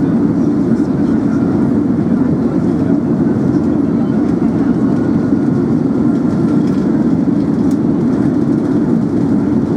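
Steady low cabin noise of an Airbus A380 in flight, the even hum of engines and airflow heard from inside the passenger cabin.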